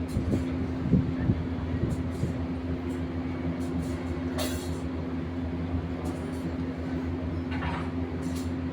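A machine engine running steadily with a constant low drone, with a few light knocks about a second in.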